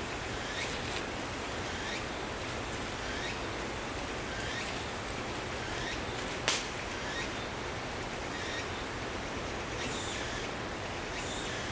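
Short animal calls repeating roughly every second and a half over a steady outdoor hiss, with one sharp click about six and a half seconds in.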